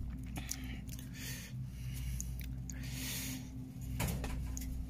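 A person eating noodles: a few short slurps and chewing over a steady low hum.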